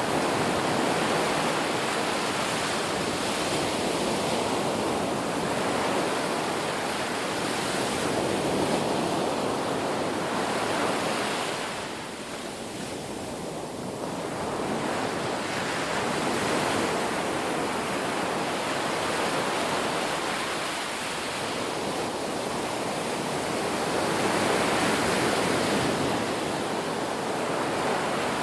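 Sea waves breaking and washing ashore in a steady surf that swells and eases every few seconds, with a lull about twelve seconds in.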